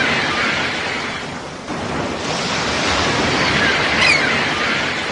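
Sea waves washing in: two surges of rushing surf, each swelling and then fading away.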